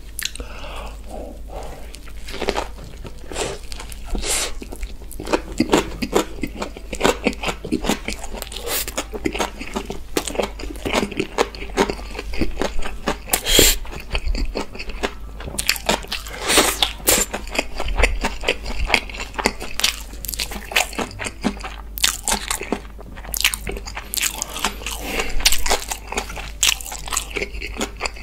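Close-miked eating sounds of a person biting into and chewing kimbap: crunchy bites and wet, crackling chewing in an irregular run of clicks.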